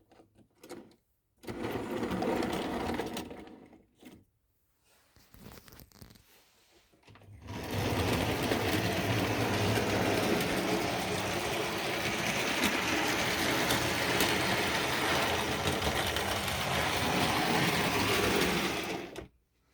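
Vintage Tri-ang OO-gauge model train running on its track, the small electric motor whirring and the wheels rattling over the rail joints. It runs briefly about two seconds in, stops, then runs steadily from about seven seconds in until it cuts off near the end.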